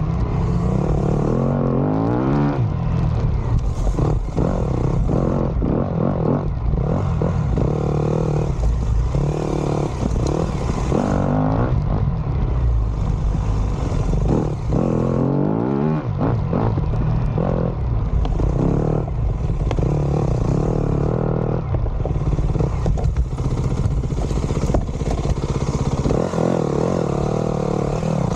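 Dirt bike engine running hard while riding, the revs rising and falling again and again with the throttle.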